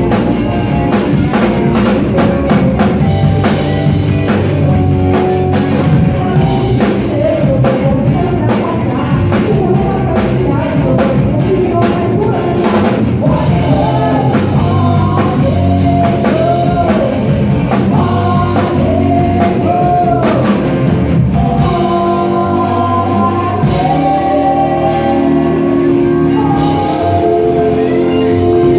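Live rock band playing, with a drum kit, electric guitar and a lead singer; the voice is clearest through the middle, and steadier held chords carry the last few seconds.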